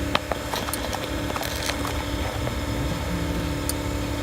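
Steady mechanical hum with scattered short metallic clicks and knocks from tools working on the exhaust pipe under the car.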